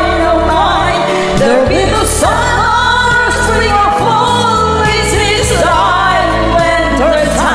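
Karaoke singing over a pop backing track: a sung vocal line with bass and drums.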